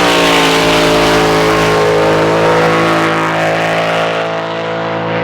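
Drag boat's racing engine running down the course, its pitch dropping at the start and then holding steady as it fades, over a loud rush of spray and air.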